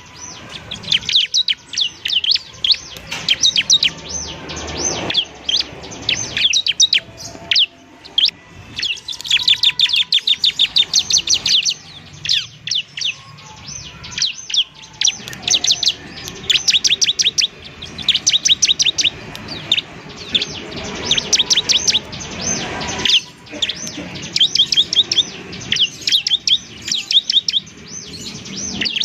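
Bar-winged prinia (ciblek) singing: rapid runs of sharp, high chirps in bursts of a few seconds, broken by short pauses.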